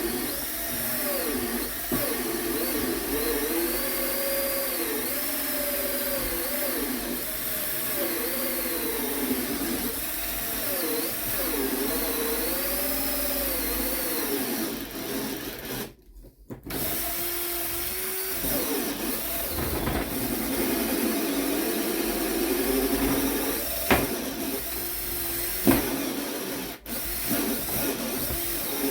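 Power drill driving a bi-metal hole saw through 25 mm MDF. The motor's pitch sags and recovers over and over as the saw labours through the board, slow enough that the wood starts to smoke. The drill stops briefly about halfway and starts again, and there are a couple of sharp knocks near the end.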